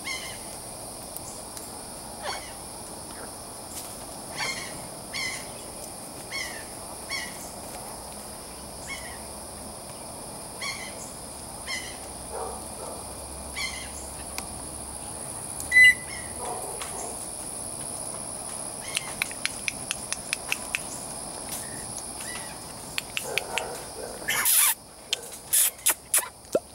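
A steady high-pitched insect drone with short bird calls repeating every second or so, and a run of sharp clicks in the last part.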